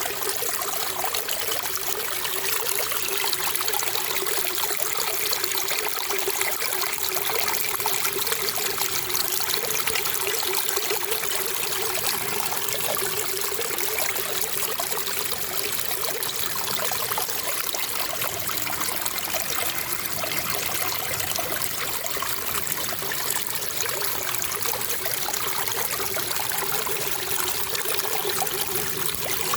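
Running water trickling and splashing steadily without a break.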